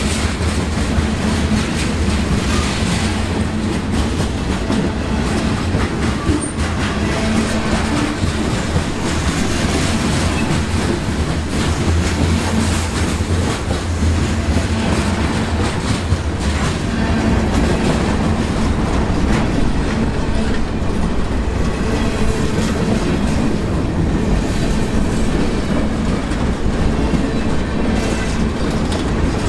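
Freight train of covered hoppers and boxcars rolling past at close range: a steady, loud rumble of steel wheels on rail, with repeated clicks of the wheels passing over rail joints.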